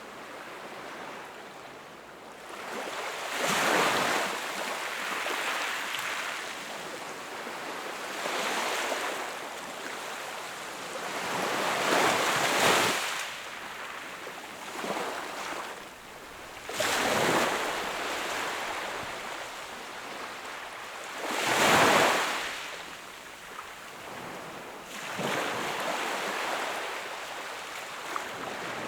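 Sea waves breaking and washing up on the shore, a steady rushing wash with louder surges as each wave comes in, about four or five times.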